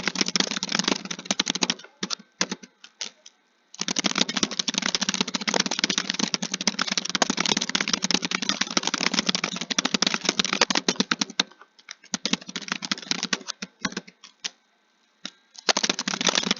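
Fast, continuous typing on a keyboard, many keystrokes a second. It twice thins to a few scattered key clicks: once about two seconds in, and again for about four seconds near the end before picking up again.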